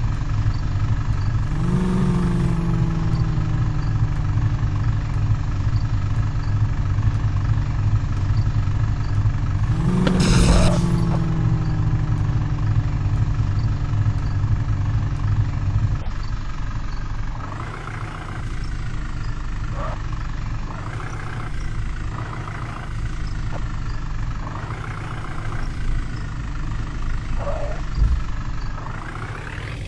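Tractor diesel engine running steadily, with two brief revs about two seconds and ten seconds in. From about halfway the sound changes to a series of repeated rising surges in engine pitch.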